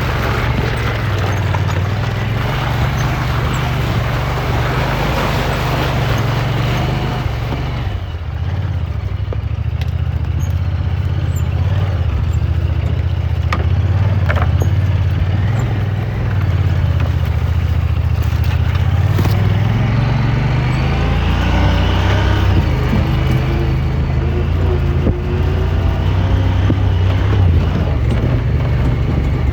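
Side-by-side engine running while driving along a dirt trail, its pitch easing off about eight seconds in and climbing again a little past halfway as the throttle changes, with rattle and wind noise over it.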